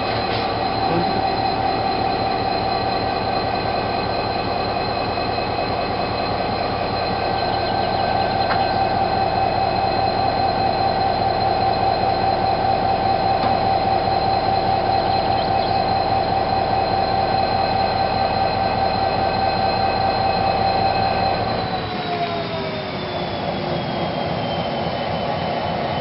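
Freight train with a GM G26CW-type diesel-electric locomotive rolling slowly past on the rails, a steady high whine sounding over the rumble of the wagons. About 22 seconds in the whine slides down in pitch and the sound eases a little.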